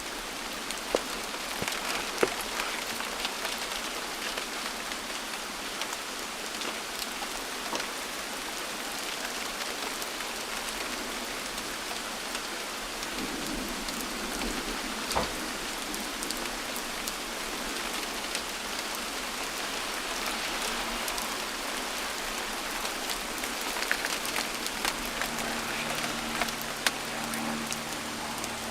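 Steady rain falling: an even hiss of rain with scattered individual drops striking close by, a few of them sharper and louder.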